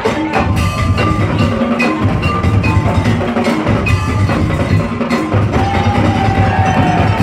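Madurese daul (tong-tong) music ensemble playing: a steady rhythm of deep drum beats and wooden knocks under a chiming melody of short struck notes, with a long held note near the end.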